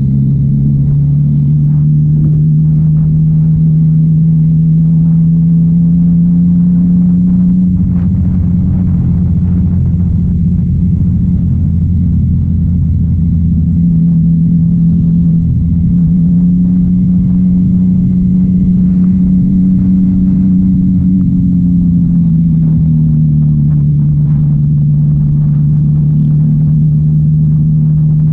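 Motorcycle engine running steadily at cruising revs while riding, its note rising and falling a little with the throttle and easing slightly about two-thirds of the way through.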